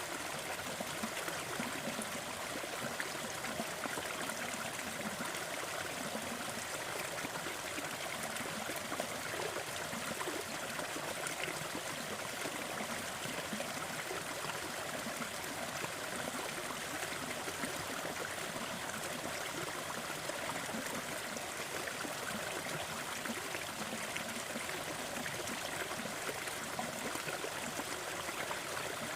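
Gentle waterfall: water falling and splashing in a steady, unbroken rush.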